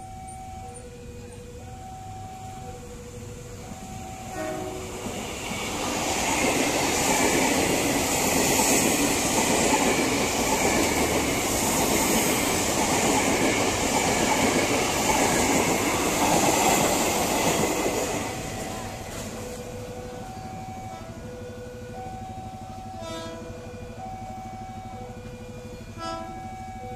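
KRL electric commuter train passing close by, the rush of its wheels on the rails loud for about twelve seconds before fading. A level-crossing warning sounding two alternating tones is heard before it and again after it has passed.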